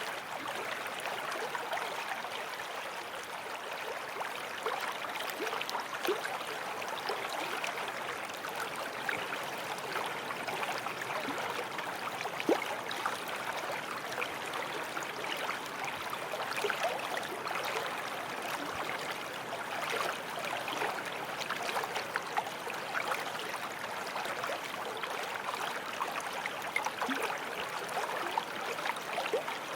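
Small forest stream flowing steadily over stones, a continuous babble and trickle of water with many small splashes and gurgles.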